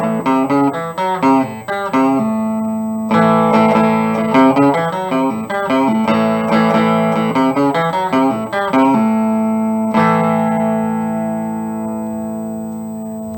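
Electric guitar through an amp's clean channel, played on a Seymour Duncan Little '59 mini humbucker in the bridge position: a picked chord riff, then a chord struck about ten seconds in and left to ring and fade.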